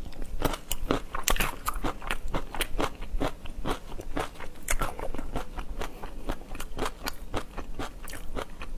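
Close-up eating of seafood: steady biting and chewing, with a rapid run of crunchy clicks, several a second.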